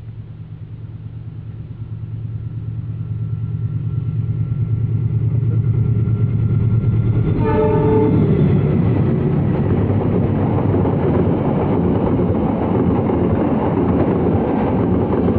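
Diesel-hauled passenger train: a low locomotive engine hum grows steadily louder as it comes on. About seven and a half seconds in there is a short horn blast, then a loud steady rumble of the train and its wheels close by.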